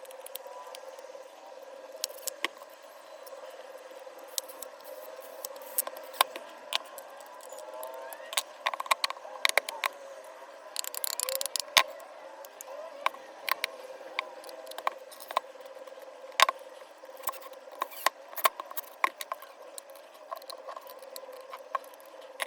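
Parts of a cordless disc grinder being handled during disassembly: irregular sharp clicks and clinks of small plastic and metal pieces, with a brief rattling scrape about eleven seconds in, over a steady faint hum.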